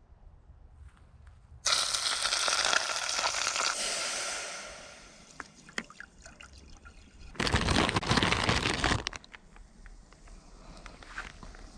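Water pouring with a rushing splash for about three seconds, tailing off, followed a few seconds later by a second loud, noisy burst lasting about a second and a half, with small clicks and knocks between.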